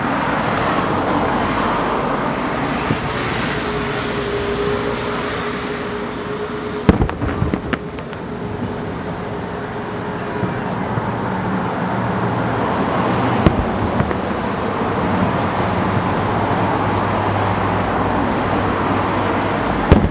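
Steady road traffic noise with the bangs of distant fireworks cutting through it: a short cluster of sharp reports about seven seconds in, another about thirteen seconds in, and one at the end.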